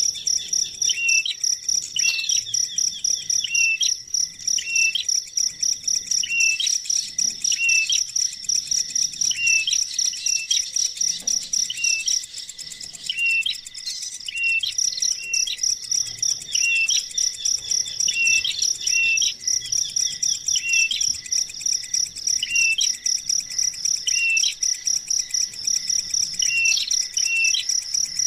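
Short bird chirps repeated about once a second over a steady, high, rapidly pulsing insect trill; the chirps pause for a couple of seconds near the middle.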